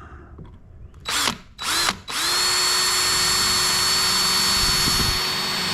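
Power drill: two short trigger bursts with the motor spinning up about a second in, then a steady run of several seconds at constant speed.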